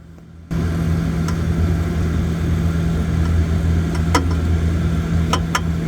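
Refrigerator running with a steady low hum that starts about half a second in, with a few sharp ticks on top, about four seconds in and twice in quick succession near the end. The tapping is put down to refrigerant flowing from a small tube into a bigger one inside the cooling system, which is normal and not a fault.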